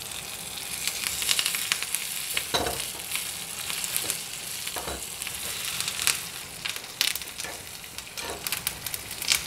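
Shallots, dried red chillies and curry leaves sizzling and crackling in hot oil in a small pan as a tempering (tadka), stirred with a spoon that knocks against the pan now and then.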